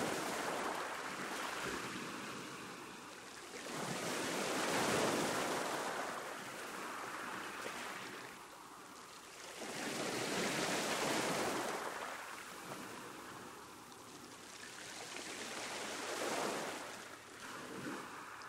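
Ocean waves breaking and washing up a beach, four surges that swell and fade at intervals of about five to six seconds.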